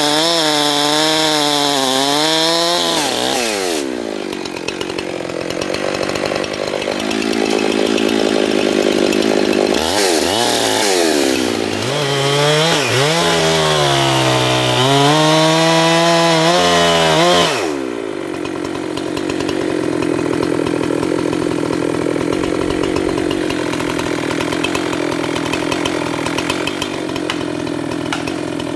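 Two-stroke chainsaw at full throttle, its pitch wavering, dropping to a lower steady idle about three seconds in. It revs high again from about ten seconds in and drops back to idle at about eighteen seconds.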